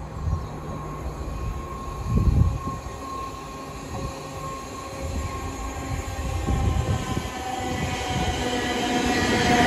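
Class 450 Desiro electric multiple unit approaching along the line, its running noise growing steadily louder as it nears. From about halfway in, several steady whining tones rise out of the noise. A brief low rumble comes about two seconds in.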